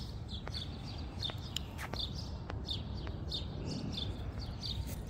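A small songbird chirping over and over: short, high, slightly falling notes about two a second. There is a steady low background rumble and a few faint sharp ticks.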